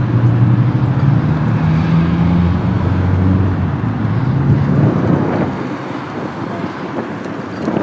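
A vehicle engine running close by: a low, steady hum that fades away about five seconds in.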